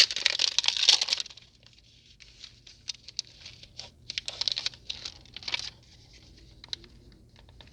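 Foil Pokemon booster pack wrapper crinkling as it is torn open, loud for about the first second, then quieter scattered rustles and crinkles as the pack is handled.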